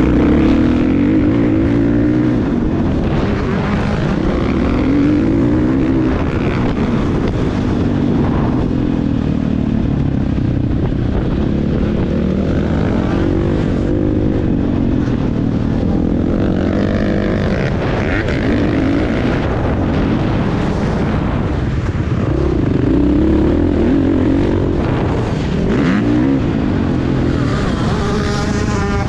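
Motocross motorcycle engine being ridden hard, its pitch rising and falling again and again as the throttle is opened and closed, with a rumble of wind on the microphone.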